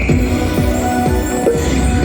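Poker machine (electronic slot machine) playing its electronic game music while the reels spin, with a low thump about twice a second.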